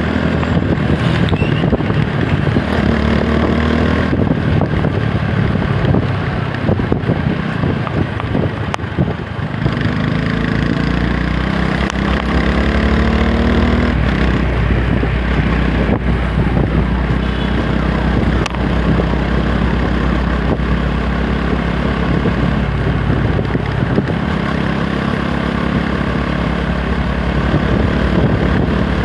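TVS Apache 160 4V's single-cylinder engine and exhaust running on the move, its pitch rising several times as it accelerates through the gears.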